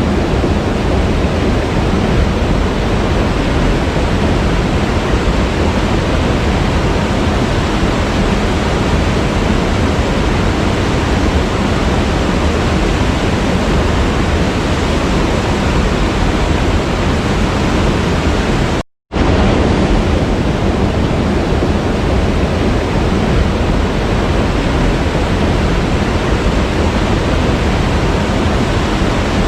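Waterfall's water rushing in a loud, even, unbroken hiss. It cuts out for a split second about nineteen seconds in, then comes back unchanged.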